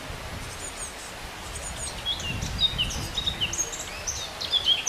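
Small birds chirping and singing in quick, high, short notes that come thicker from about halfway through, over a low background rumble.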